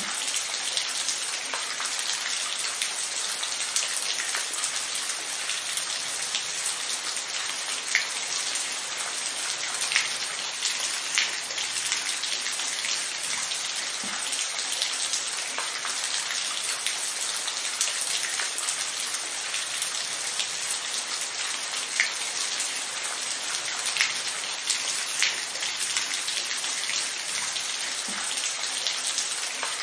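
Steady rain falling in an even hiss, with a few louder single drops landing close by now and then.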